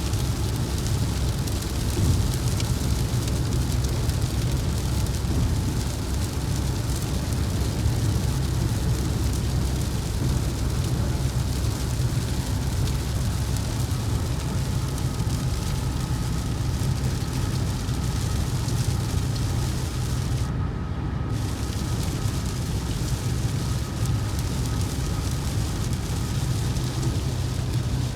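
Steady road and engine noise of a car driving at highway speed, heard from inside the cabin: a continuous low rumble with a hiss over it.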